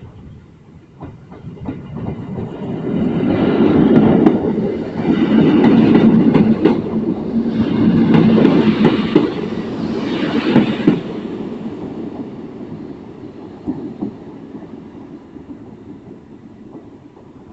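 EN57AL electric multiple unit running past on the track, its wheels clicking over the rail joints. It grows loud within a few seconds, stays loud for several seconds, then fades away.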